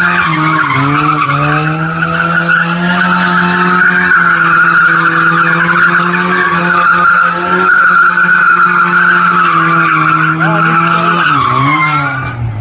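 Tofaş Doğan SLX 2.0ie's fuel-injected 2.0-litre four-cylinder engine held at high revs while the tyres squeal continuously through a drift. The revs dip briefly near the start and again near the end.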